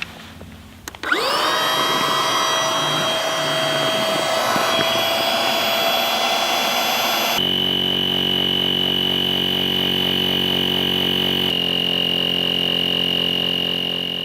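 A small electric motor starts about a second in, its whine rising as it spins up, then runs steadily. The sound changes abruptly twice, to a steadier hum with a high whine, and stops near the end.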